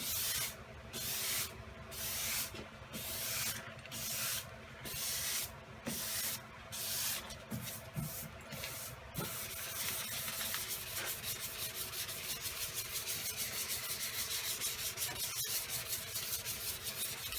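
400-grit sandpaper on a soft sanding block rubbed by hand over a bare steel car door panel, block-sanding out scratches before sealer. It starts as long separate strokes about a second apart, then from about nine seconds in turns to quicker, shorter strokes in a steady rhythm.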